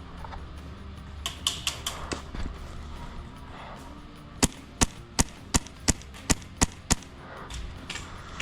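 Airsoft rifle firing a string of about eight semi-automatic shots at roughly three a second, a few seconds in. A few fainter clicks come earlier.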